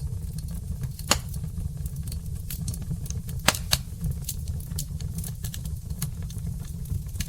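Burning logs in a fireplace crackling: irregular sharp pops and snaps over a steady low rumble, with the loudest pops about a second in and twice around three and a half seconds in.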